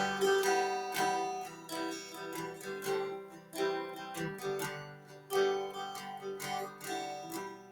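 Background music of plucked and strummed guitar, fading toward the end.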